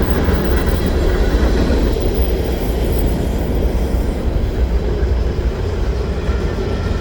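Mixed freight cars of a fast freight train rolling past, a steady rumble of steel wheels on rail.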